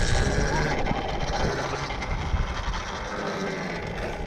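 Tuttio Soleil electric dirt bike being ridden: a steady rolling noise of the motor and tyres.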